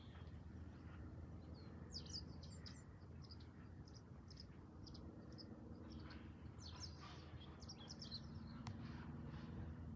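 Faint birds chirping: short high chirps in two bursts, about two seconds in and again around seven seconds, over a low steady background hum.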